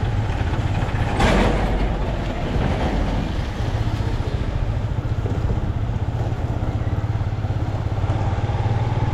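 Motorcycle engine running steadily while riding in city traffic, with road and wind noise; a brief louder rush of noise about a second in.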